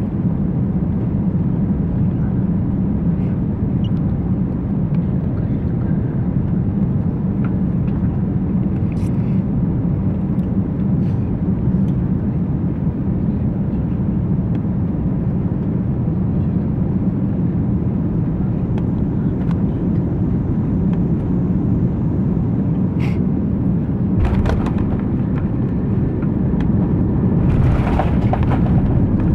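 Cabin of an Airbus A340-200 during its landing: a steady low rumble of engines and airflow, with a few light clicks and knocks, and a louder rushing noise building over the last few seconds.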